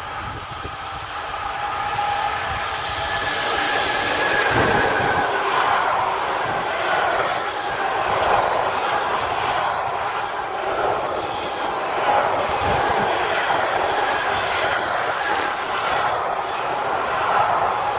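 A train rolling past on the rails: continuous wheel-on-rail rolling noise with a steady high ringing tone, growing louder over the first few seconds and then holding steady.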